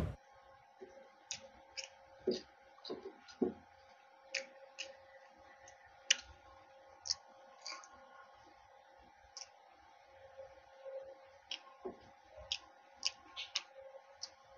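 Close-miked eating sounds: a man chewing mouthfuls of fried aloo samosa, with irregular wet mouth clicks and smacks and a few soft low thuds, over a faint steady hum.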